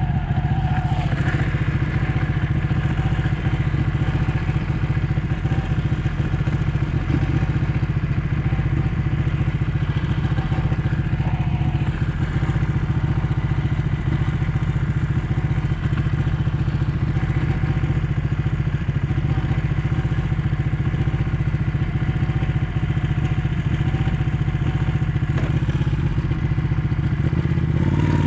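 Ducati 1199 S Panigale's 1198 cc Superquadro V-twin running at a steady, unchanging engine speed, a deep uneven pulsing note with no revving.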